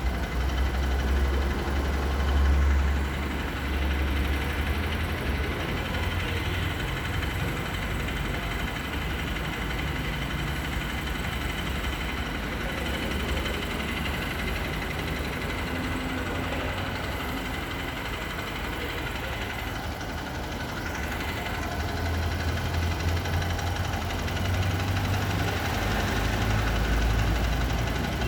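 An engine idling steadily, a low rumble that grows stronger in the first few seconds and again in the last several.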